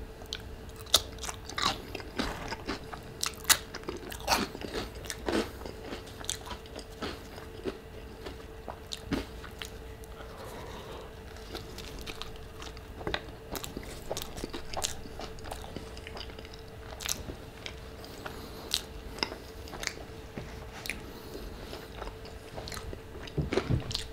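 Close-up eating sounds of a person biting and chewing a bean and cheese burrito: many small sharp mouth clicks and smacks scattered throughout.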